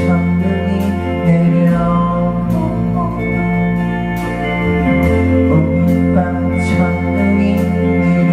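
Live band music: held chords over sustained bass notes that change every few seconds, with cymbal hits about once a second.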